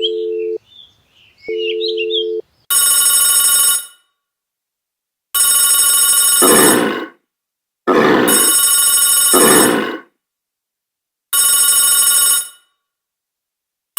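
Telephone-style ringing: two short steady double tones, then four loud electronic rings of about a second each with silent gaps between them, and a fifth ring starting right at the end.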